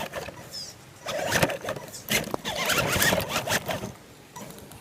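Radio-controlled car driven in short bursts through mud: the electric motor whirs and squeals and the wheels churn and spatter. The motor is smoking.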